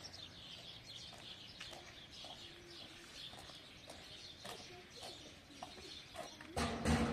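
Birds chirping quietly in short repeated calls. About six and a half seconds in, music with a heavy drum beat starts suddenly and is much louder.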